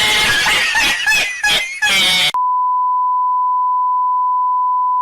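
A loud, harsh, distorted sound that stutters and breaks up, cut off abruptly a little over two seconds in by a steady, unbroken high beep tone like a censor bleep.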